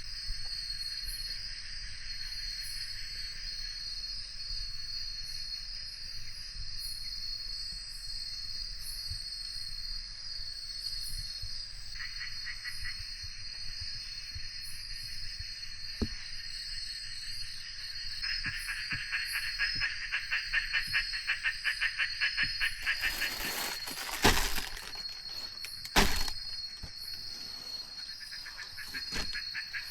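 Steady tropical forest insect chorus, a continuous high buzz and trill. About two-thirds of the way in, a rapid pulsing call starts up, then comes a short, loud crackling burst and a single sharp knock.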